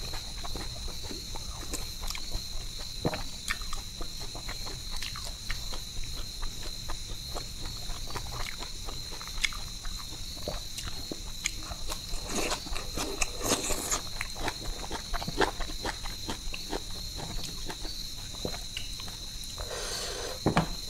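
Close-miked eating by hand: many short wet clicks and smacks of chewing rice, tin fish and greens. Behind them, a steady high-pitched insect chirr, typical of crickets at night.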